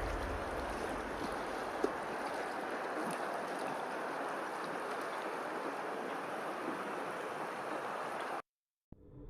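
Steady rushing of water, cutting off abruptly about a second before the end.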